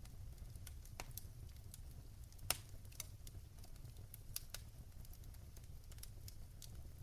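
Wood fire crackling: irregular sharp pops and snaps, the loudest about two and a half seconds in, over a low steady rumble of the flames.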